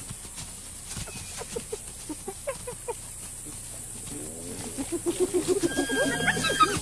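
Spotted hyenas calling: scattered short yelps, then from about four seconds in a rapid run of cackling giggles that grows louder, with a few rising and falling whoop-like glides near the end.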